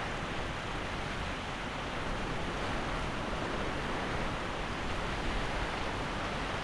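Heavy hurricane rain pouring down steadily, a constant hiss of rain on grass, roofs and yard clutter.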